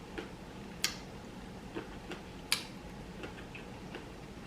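Close-miked eating sounds: a few irregular sharp mouth clicks and wet smacks while chewing, the loudest about a second in and halfway through.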